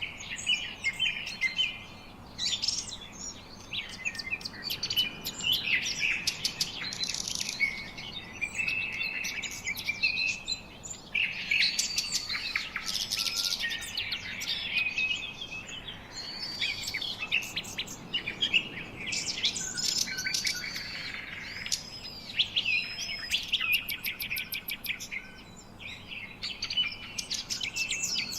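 Several songbirds singing and chirping at once: a dense chorus of quick chirps, rapid trills and short arched whistles.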